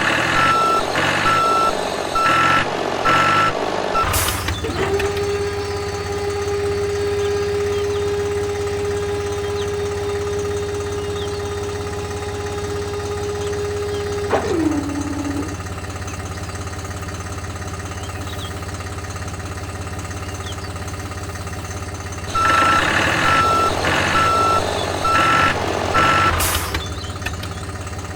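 Vehicle reversing-alarm beeper sounding a steady train of beeps, about one and a half a second, at the start and again near the end, over a steady motor hum. Between the beep runs a steady whine holds for about ten seconds, then drops in pitch.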